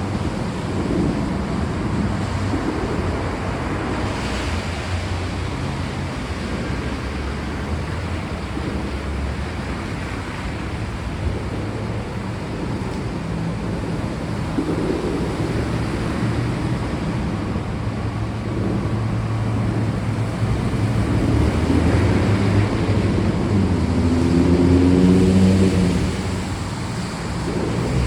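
Steady rain hiss with low thunder rumbling and rolling underneath, swelling louder near the end.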